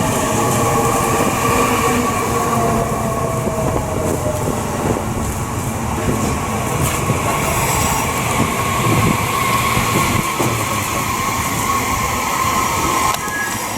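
Electric commuter train running on the rails at a station: a steady rumble of wheels and running gear with a high whine from the train that stops near the end.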